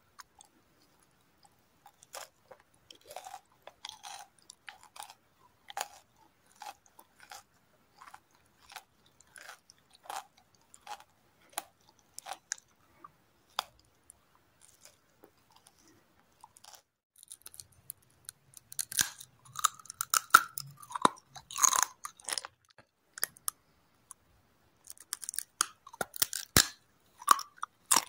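Close-miked crunchy chewing of a puffed cereal bar of chocolate and plain cereal balls. Separate crisp chews come about every half second starting about two seconds in, then turn louder and denser past the middle.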